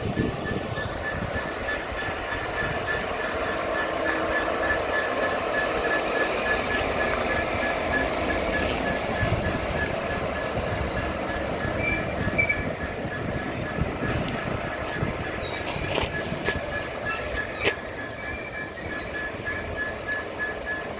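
A train running along the track, a continuous rumble of wheels on rail, with a few short wheel squeals about halfway through.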